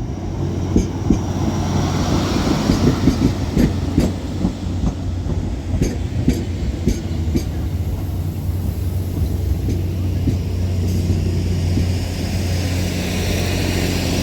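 Northern Class 769 bi-mode unit arriving under diesel power: a steady low engine drone with wheels clicking over rail joints, the clicks mostly in the first half.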